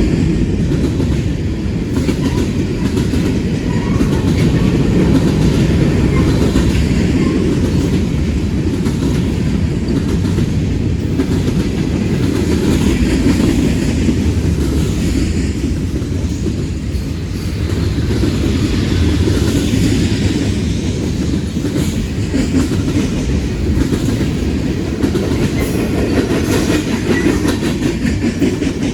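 Long freight train's cars rolling steadily past, a continuous rumble with wheels clicking over the rail joints; no horn sounds.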